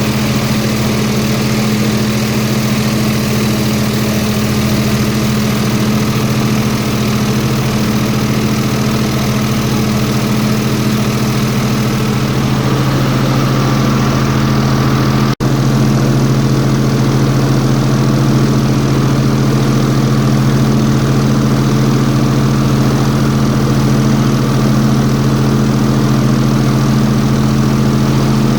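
Airboat engine and propeller running steadily with a loud, even drone. The sound cuts out for a split second about halfway through, then carries on a little heavier.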